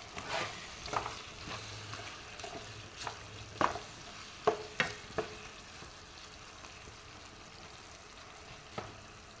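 Cubed potatoes in a chili and sweet soy sauce sambal frying with a faint sizzle in a nonstick pan. A spatula stirs them, scraping and knocking against the pan several times in the first five seconds and once more near the end.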